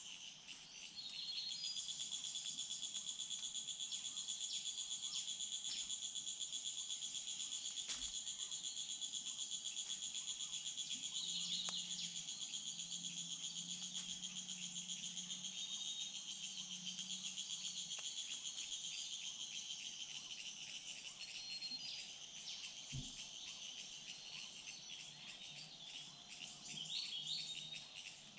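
Steady, high-pitched chorus of insects, with a few brief bird chirps over it.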